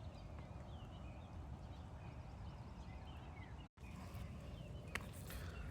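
Quiet outdoor background: a steady low hiss with faint, short, falling bird chirps scattered through it. The sound drops out for a moment a little past halfway.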